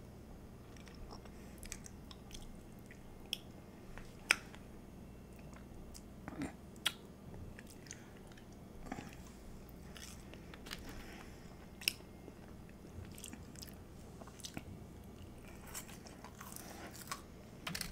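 Quiet, close-miked chewing and mouth sounds of someone eating chili cheese fries, with a sharp click every few seconds.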